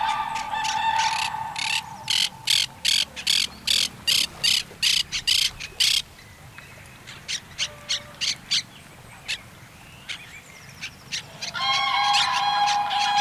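Birds calling by a pond. Near the start a quick run of loud, harsh calls repeats about three or four times a second for some four seconds, then fainter scattered calls follow. A steady held tone sounds at the very beginning and returns about two seconds before the end.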